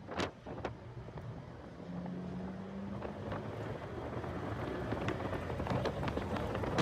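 Heavy wind buffeting on the microphone of a car being driven on track, over the car's engine and road noise, with crackles and pops throughout and a brief steady engine tone in the middle; it grows louder toward the end.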